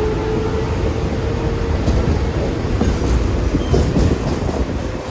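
Mumbai suburban electric local train running along the track: a steady heavy rumble with wheels clicking over the rails. A steady hum fades about two seconds in.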